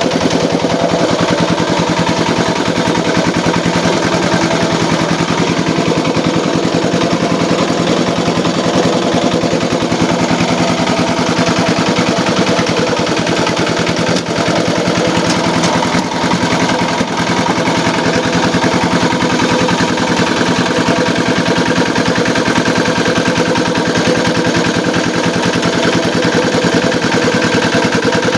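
Small engine running steadily at a constant speed with a rapid even chug, driving a homemade gambir leaf grinding and screw-press machine.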